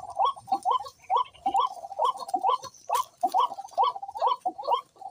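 Birds calling over and over in short, hooked chirps, about three or four a second.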